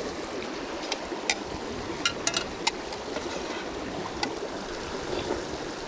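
Steady rush of a river stream, with a few short, sharp light clicks over it, several in a quick cluster about two seconds in.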